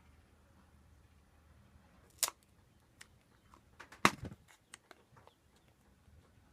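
A few sharp clicks and knocks over low background noise. The loudest come about two seconds and four seconds in, with several lighter ticks around and after the second.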